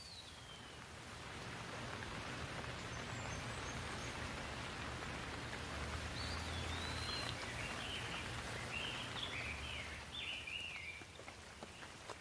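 Rain falling as a steady hiss that grows heavier about a second in and eases near the end, with a bird giving a run of short chirps in the second half.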